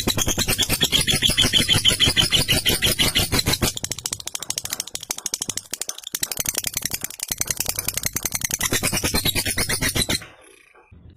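Lovebird in a long 'ngekek' chatter: a rapid, rattling run of fast repeated notes that stops suddenly about ten seconds in.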